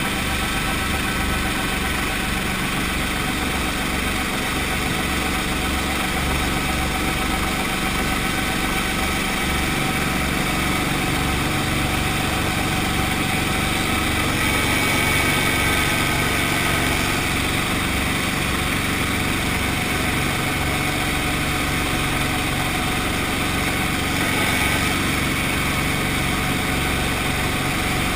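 Brantly B-2B helicopter's piston engine running steadily at low power, with a low pulsing throb underneath.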